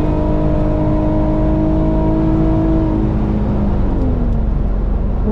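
Infiniti's engine heard from inside the cabin while driving: a steady engine note that falls away from about three seconds in as the car slows, then climbs again at the very end, over a constant road rumble.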